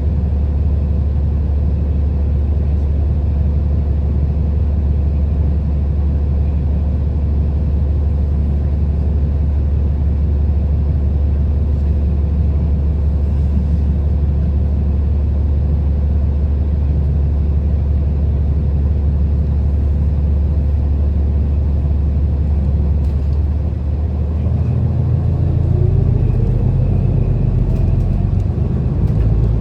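City bus engine and road noise heard from inside the bus: a loud, steady low drone, then near the end the engine note changes and a rising whine climbs as the bus speeds up.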